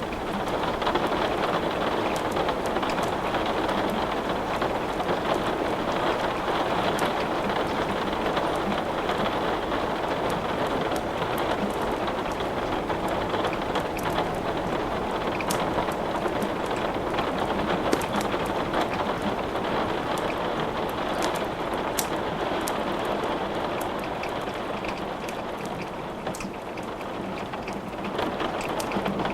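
Steady rain falling, with scattered sharp crackles and pops from burning wood in a fireplace.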